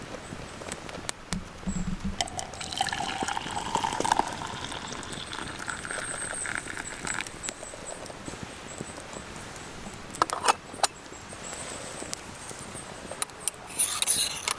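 Liquid being poured into a container, the pitch rising as it fills for about five seconds, followed by a few light clicks or knocks.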